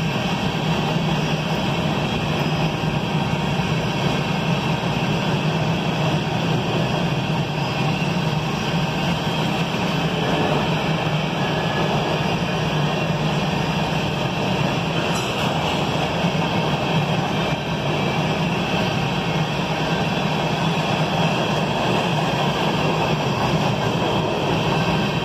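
Covered hopper cars of a CSX freight train rolling past, a steady rumbling noise of wheels on the rails.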